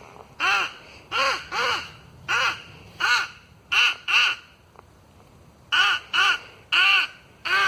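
Nordik mouth-blown crow call sounding a series of loud, harsh caws, about a dozen short notes mostly in pairs, each rising and falling in pitch, with a pause of about a second midway.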